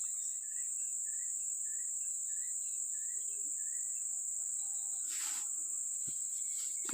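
Steady high-pitched insect chorus, crickets or similar, with a faint short call repeating about every half second for the first few seconds. A brief rustle sounds about five seconds in, then a single click.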